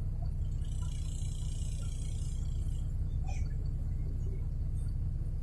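City bus running, heard from inside the passenger cabin: a steady low rumble from the engine and running gear, with a faint hiss about a second in.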